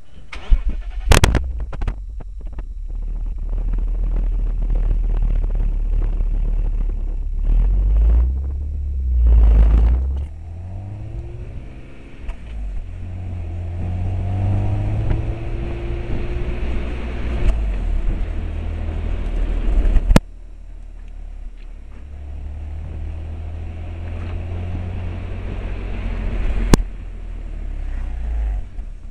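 BMW Alpina B3 S engine and exhaust running, with two short bursts of revving about eight and nine seconds in, then a rising pitch as the car accelerates. A few sharp clicks stand out, one of them followed by a sudden drop in level.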